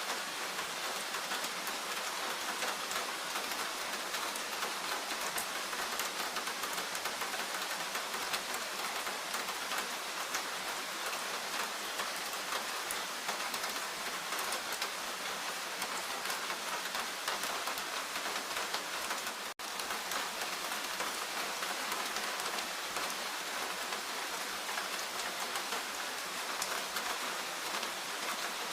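Steady rain falling in a forest, an even hiss with many separate drops hitting. The sound cuts out for an instant about two-thirds of the way through.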